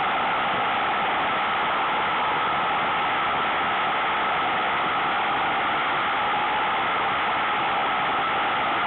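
Steady rush of wind and road noise on a motorcycle-mounted microphone while riding at speed, with no clear engine note.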